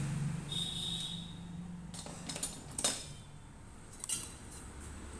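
Light clinks and knocks of parts being handled and fitted, a few separate clicks in the second half, over a low hum that fades after about two seconds.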